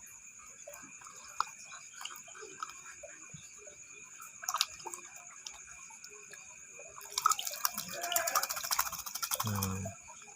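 Water dripping and splashing as a caged sogon songbird is bathed. The splashing comes as a dense patch of quick patters from about seven seconds in to near the end. A steady high insect chirr runs underneath.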